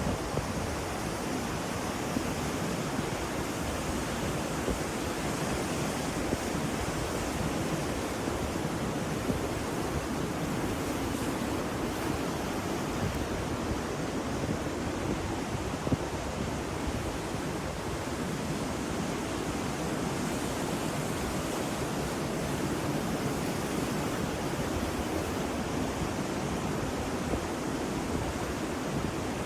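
Ocean surf: a steady, even wash of wave noise with no distinct breaking waves standing out.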